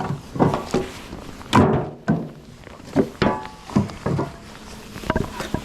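Split firewood pieces being set down and stacked, knocking and clunking against each other in about a dozen irregular knocks, some ringing briefly.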